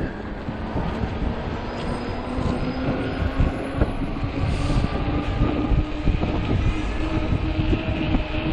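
Wind buffeting the microphone while riding an Ecotric 48V fat-tire e-bike, with a steady whine that rises slightly in pitch.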